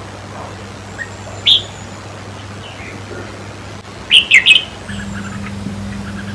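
Red-whiskered bulbul calling: one sharp note about a second and a half in, then a quick burst of three loud notes about four seconds in, with softer chirps between, over a steady low hum.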